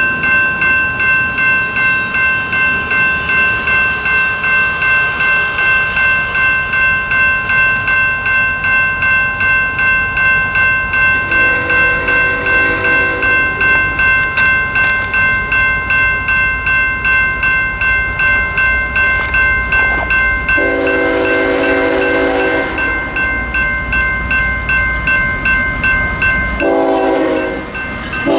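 Railroad grade-crossing bell ringing about twice a second while a BNSF diesel freight locomotive approaches and sounds its multi-chime horn: a fainter blast about 12 seconds in, a longer loud blast about 20 seconds in, and another loud blast near the end, with the train's rumble growing underneath.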